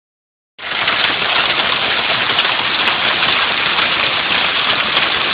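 Heavy rain falling steadily as a storm comes in, starting about half a second in.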